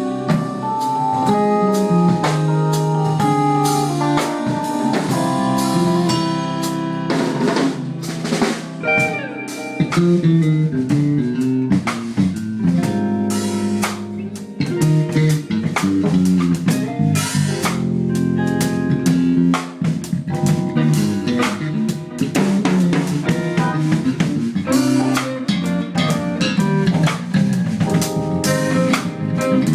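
Live rock band playing: electric guitar lead over bass and a drum kit, the drums keeping a busy steady beat.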